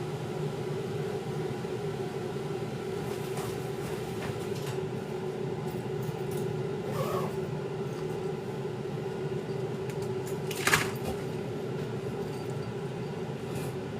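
Steady mechanical hum with a constant tone, broken by a few faint clicks and one short, sharp knock about ten and a half seconds in.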